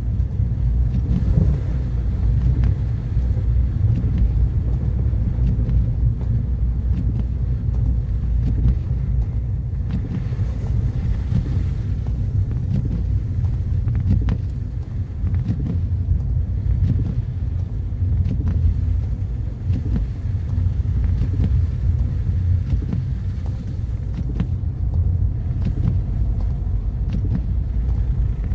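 Car driving on a snowy road: a steady low rumble of engine and tyre noise, with faint scattered ticks.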